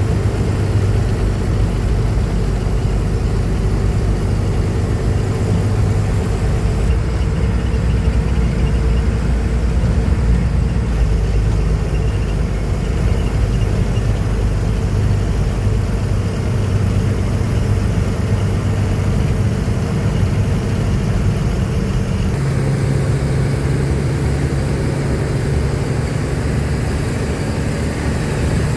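Truck's diesel engine running steadily. Its note steps up in pitch about three-quarters of the way through.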